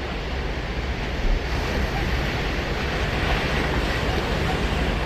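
Surf breaking and washing up the beach: a steady rush of water that swells about a second and a half in and eases off near the end.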